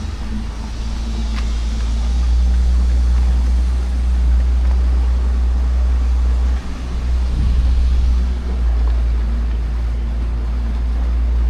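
Small tour boat's motor running steadily, a low drone with a deep rumble underneath.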